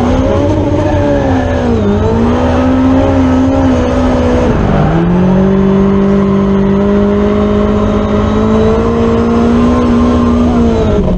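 Drift car engine running hard at high revs, the pitch swinging up and down under throttle, then a sharp dip about four and a half seconds in before it settles into a steady, sustained high-rev note.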